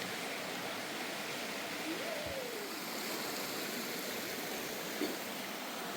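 Steady, even rushing noise, with a faint short tone that rises and falls about two seconds in.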